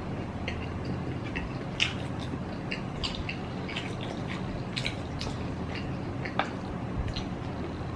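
A person chewing instant noodles: wet mouth clicks and lip smacks, irregular and close to the microphone, over a steady low hum.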